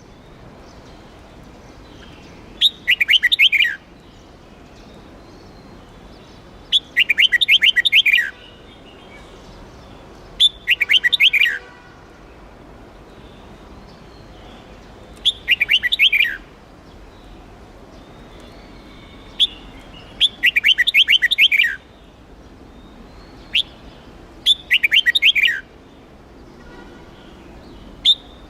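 Red-whiskered bulbul singing: bursts of quick, high, downward-sliding notes, each about a second long, repeated every three to five seconds, with a faint steady hiss between them.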